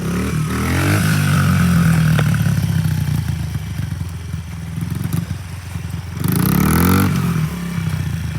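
Small dirt bike engine running and revving up, its pitch rising near the start and again about six seconds in, then dropping back.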